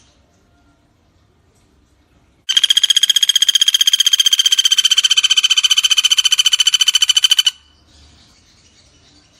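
Common flameback woodpecker (pelatuk bawang) giving one long, rapid rattling trill, starting abruptly about two and a half seconds in and stopping suddenly after about five seconds.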